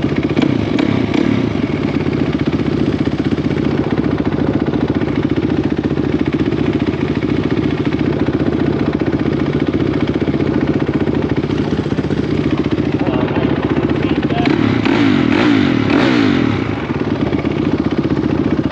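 Dirt bike engine running hard and steady under throttle, with a few quick rises and falls in pitch as it revs about three quarters of the way through.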